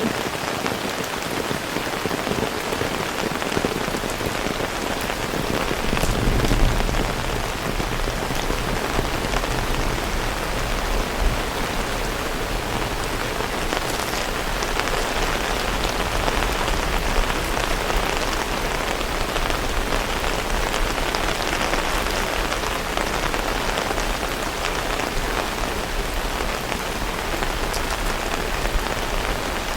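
Heavy rain falling steadily, with a few sharp drip clicks. A low rumble swells about six seconds in and carries on under the rain.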